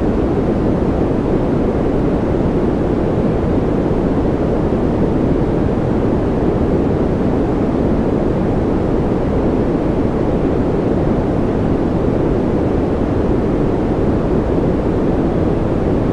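Continuous white-noise sleep sound for babies: an even, deep rushing with little treble that does not change.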